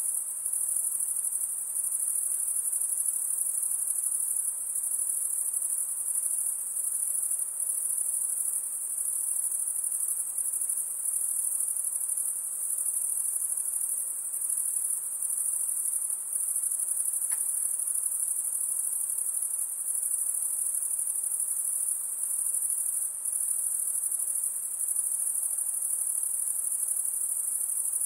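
Dense, continuous high-pitched insect chorus, crickets or similar, trilling without pause in a steady shimmer.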